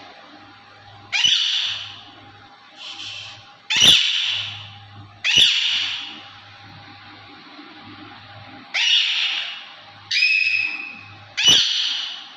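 Ringneck parakeet calling: a string of about seven loud, harsh squawks spaced one to two seconds apart, one of them fainter.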